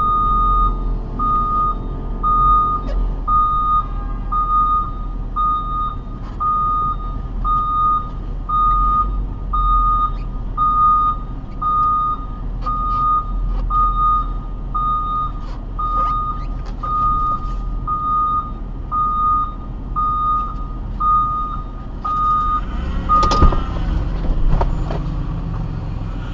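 An electronic warning beep in a vehicle repeats about once a second over a steady low rumble of engine and road noise. The beeping stops near the end, and a few sharp knocks follow.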